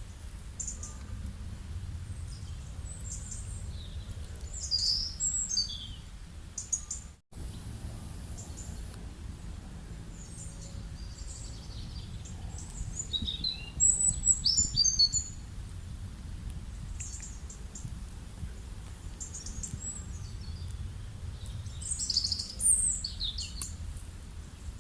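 Wild birds chirping and singing over a steady low background rumble, with flurries of high, quickly falling notes about 5, 14 and 22 seconds in. The sound cuts out completely for a moment just after 7 seconds.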